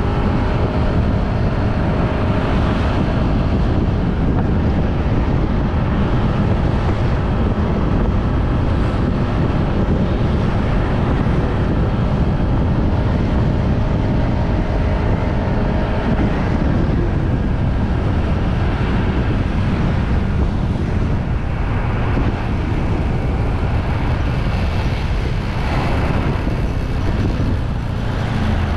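Motorbike riding at a steady speed: heavy wind rumble on the microphone over the engine's steady running.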